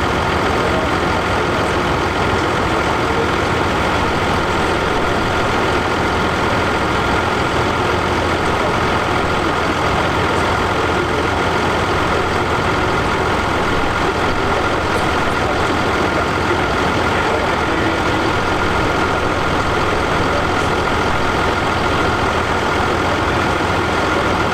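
Fendt 716 tractor's engine running steadily on a PTO dynamometer, with a constant high whine over the engine note.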